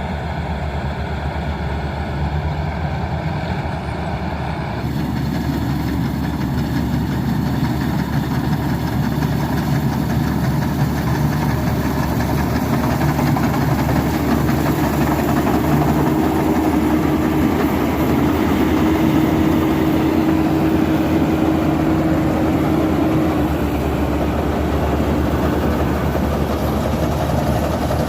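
Tractor engine running steadily, its sound growing fuller about five seconds in, with a steady whine for several seconds in the middle.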